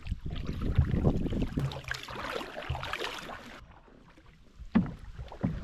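Wind buffeting the microphone over the sounds of a canoe moving on the river. The sound drops away suddenly partway through, and two sharp knocks come near the end.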